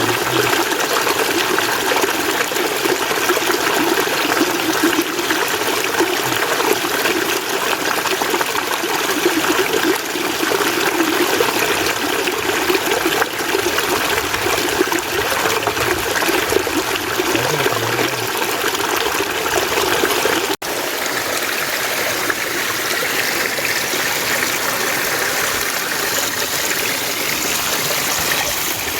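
Mountain stream water flowing and trickling steadily. About two-thirds of the way through it drops out for an instant and resumes with a slightly different sound.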